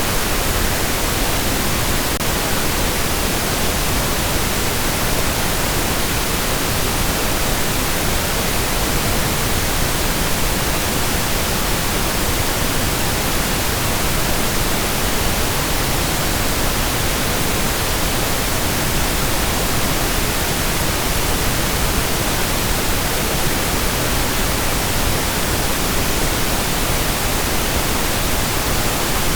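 Steady synthetic pink noise: an even, unchanging hiss spread across the whole range, no tones or events.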